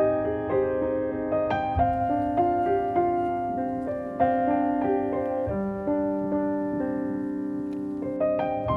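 Background music: a slow, gentle solo piano piece, single notes and chords struck and left to ring.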